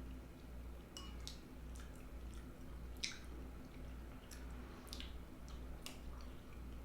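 A person chewing chili mac with the mouth close to the microphone: soft, wet chewing with scattered sharp lip-smacks and clicks.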